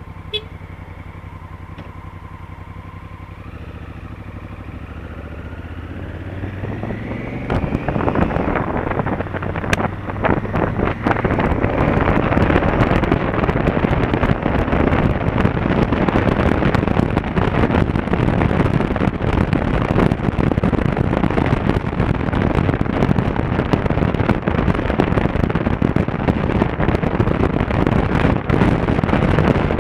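Honda Africa Twin CRF1000L parallel-twin engine running steadily at low revs, then rising in pitch as the bike accelerates. From about eight seconds in, loud wind rush on the helmet-camera microphone mixes with the engine and stays loud.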